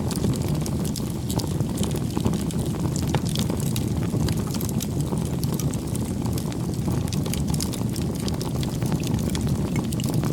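Wood bonfire crackling: many small, sharp snaps and pops of burning wood, irregular and frequent, over a steady low rushing of the flames.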